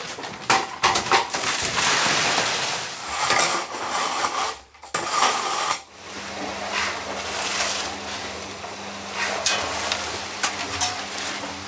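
Renovation work noise: clattering, knocking and scraping. Partway through, a steady low hum joins in.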